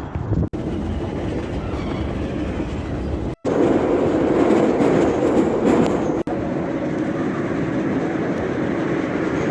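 Steady rumble of a moving train heard from inside the carriage, with no speech; the sound breaks off briefly twice.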